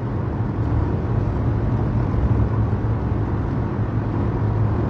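Steady low engine drone, an even hum that does not change in pitch or level.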